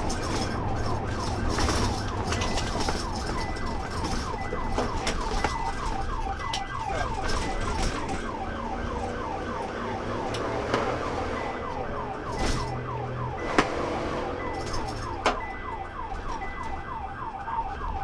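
Police car siren in rapid yelp, rising sweeps about four a second, over engine and road noise during a high-speed pursuit. A few sharp knocks come about two-thirds of the way through.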